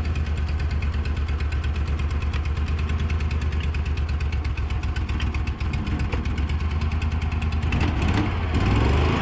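Cushman Turf Truckster engine running steadily at idle with an even firing beat, fed by its newly fitted vacuum-driven fuel pump; it gets a little louder near the end.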